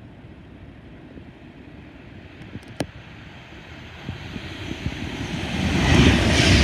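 Class 390 Pendolino electric train approaching through the station at speed: a low rumble and rush of air that grows steadily louder over the last couple of seconds. A single sharp click sounds near the middle.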